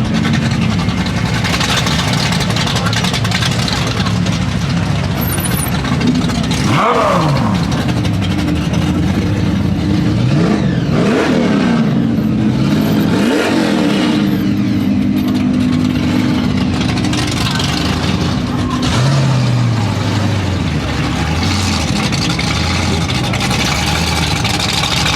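Supercars launching and accelerating hard on a runway: engine pitch climbs steeply and drops back at each upshift several times, with engines running steadily underneath. Near the end, one engine's pitch falls away.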